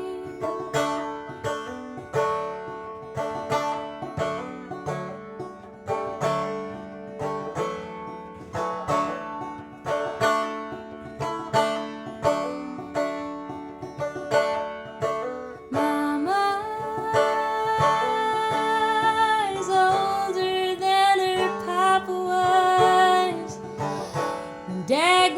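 Live acoustic folk music: a plucked acoustic string instrument picked in a steady rhythm. About two-thirds of the way through, a voice joins with long, wavering held notes over the picking.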